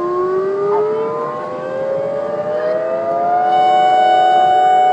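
Tsunami warning siren winding up, its pitch rising steadily over about three seconds and then holding a steady high tone.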